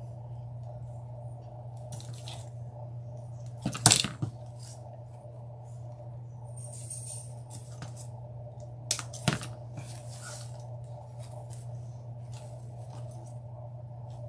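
Handling of artificial floral picks and stems: light rustling with two sharp clicks, the louder about four seconds in and a double click about nine seconds in, over a steady low hum.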